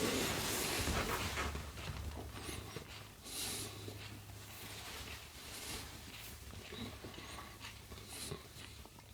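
A person chewing a large Gator Jigsaw superhot pepper and breathing hard through the mouth in irregular huffs. It is louder for the first second or so, then quieter.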